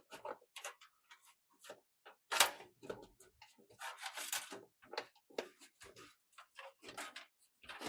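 Irregular clicks, rattles and knocks of computer parts and a PC case being handled during assembly. The loudest is a sharp knock about two and a half seconds in, and a quicker cluster of clicks follows around four seconds in.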